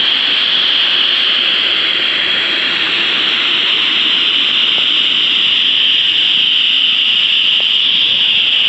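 Waterfall rushing: a loud, steady noise of falling water that stays even throughout.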